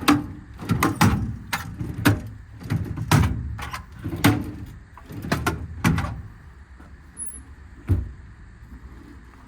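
Metal drawers and doors of a truck service body's storage compartments being pulled open and pushed shut: a run of clanks and rattles, about two a second, for some six seconds, then one last thump near the end.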